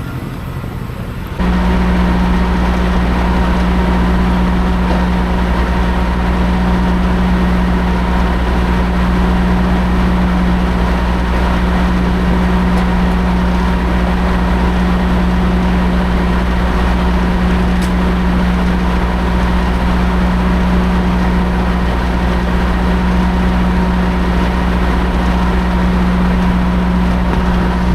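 Semi-truck's diesel engine running with a steady, unchanging drone, cutting in abruptly about a second in.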